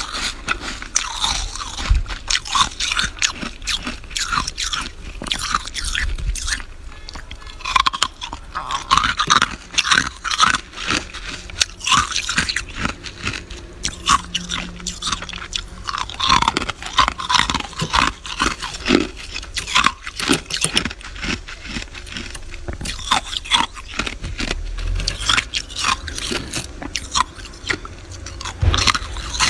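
Freezer frost being chewed and crunched in the mouth: a close, continuous run of crisp crackles.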